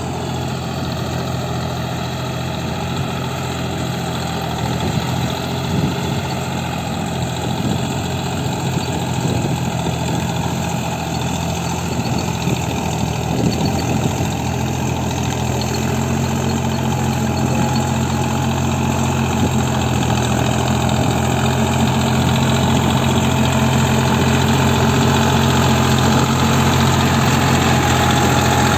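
Deutz-Fahr Agrolux 50 tractor's diesel engine running steadily, getting a little louder from about halfway through.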